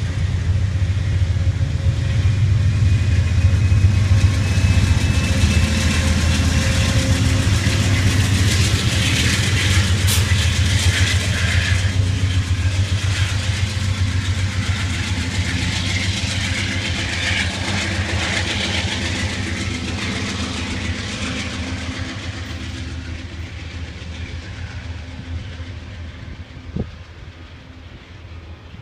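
Amtrak GE P42DC diesel locomotive hauling a passenger train past: a deep engine drone with rail and wheel noise, loudest around the middle, then fading gradually as the train moves away.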